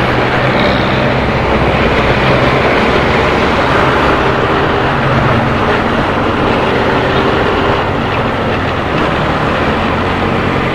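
Motorcycle engine running steadily while riding, with a dense rush of road noise, heard through a helmet-mounted action camera's external microphone. The engine's hum shifts slightly in pitch about eight seconds in.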